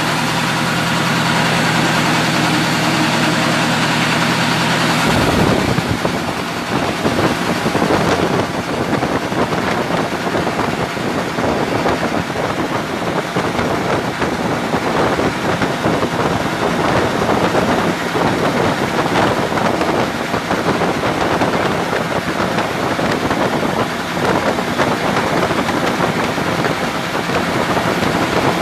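Mitsubishi 8DC10 V8 diesel engine running, steady at first. About five seconds in, the sound changes suddenly to a rougher, noisier clatter with dense ticking, which carries on from there.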